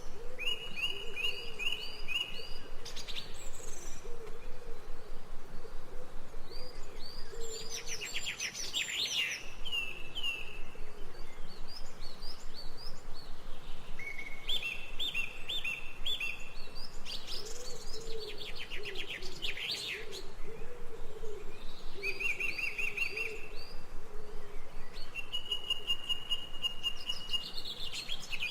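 Songbirds singing: repeated runs of short, high chirps and rapid trills that come again every few seconds, with a faint low wavering tone underneath.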